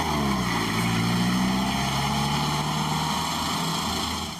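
Vehicle engine running; its pitch drops as it eases off at the start, then it runs steadily and fades away near the end.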